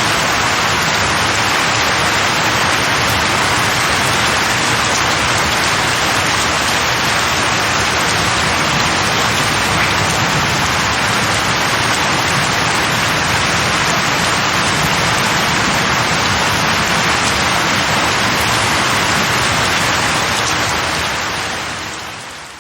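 Steady rain falling on leaves and trees, a dense even hiss that fades out over the last couple of seconds.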